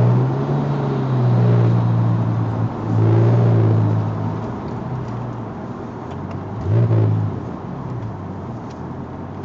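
Twin-turbo Porsche 911 GT3 flat-six running at low, steady revs with brief dips, a short rev about seven seconds in, then easing off and quieter.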